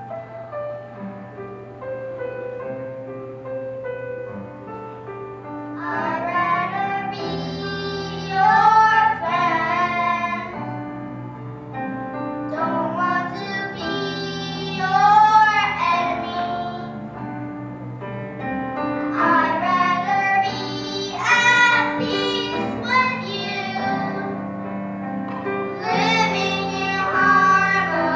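First-grade children singing a song together over instrumental accompaniment. The first few seconds are accompaniment alone; the voices come in about six seconds in and carry on in repeated phrases.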